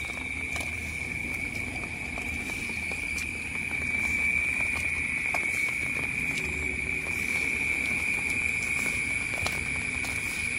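A steady, shrill chorus of night insects on one high pitch, swelling slightly about four seconds in, with scattered light taps of rain.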